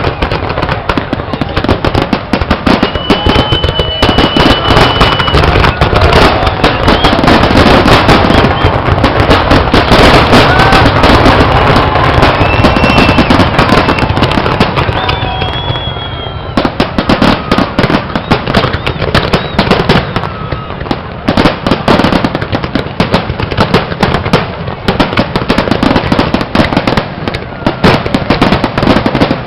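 Fireworks display: a rapid, continuous barrage of bangs and crackling, densest and loudest in the middle, with a few short whistles from rising shells.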